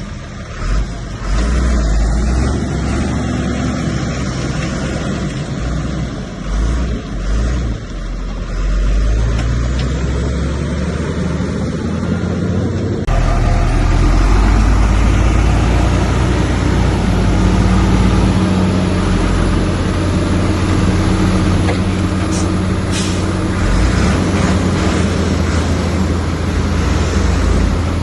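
Heavy diesel earthmoving machinery running, with a deep, steady engine rumble. The sound changes abruptly about halfway through, and a few sharp clicks come later on.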